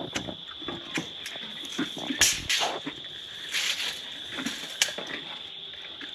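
Scattered knocks and scrapes of construction work, the loudest about two and a half seconds in, over a steady high-pitched insect drone.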